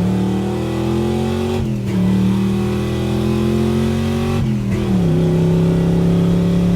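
A 327 small-block V8 in a 1955 Pontiac hot rod is pulling hard through the gears of a Muncie M22 four-speed. The engine note climbs steadily and breaks twice for quick upshifts, about a second and a half in and again around four and a half seconds, each one a brief dip that settles at a lower pitch.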